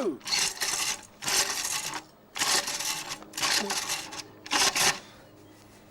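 Petrol lawn mower's pull-start cord yanked about five times in quick succession, each pull a short rattling whirr, without the engine catching.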